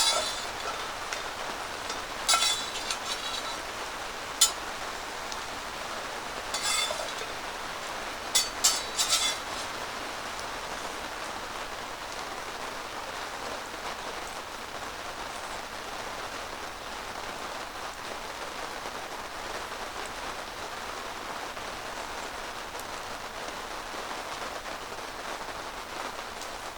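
Steady rain on the yurt's canvas roof, making an even hiss. In the first ten seconds there are about half a dozen sharp, light clinks and knocks.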